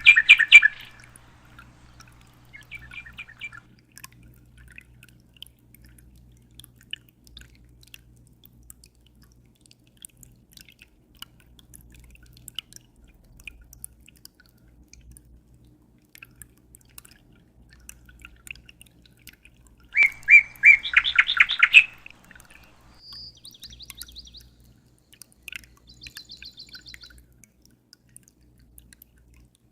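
A small bird chirping in quick trilled phrases, loudest right at the start and again about twenty seconds in, with softer short calls between. Faint drips and a low steady hum run underneath.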